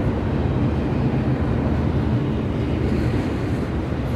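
Norfolk Southern freight train rolling past, a steady low rumble of its cars and wheels on the rails.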